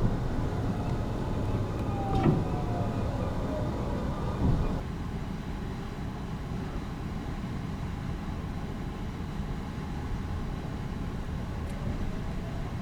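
Sunrise Seto sleeper train (285 series electric train) running along the line: a steady low rumble of wheels on rail. Short knocks come at about two seconds in and again at about four and a half seconds, and the higher hiss falls away soon after.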